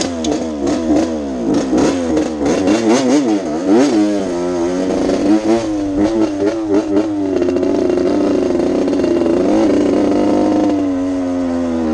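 Honda CR80 80cc two-stroke motocross engine revving in quick throttle blips, its pitch swinging up and down for about seven seconds, then running at a steadier note that sags a little near the end.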